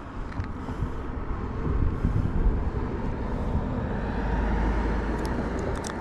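Road traffic: a passing vehicle's rumble swells to a peak about two-thirds of the way through, then fades.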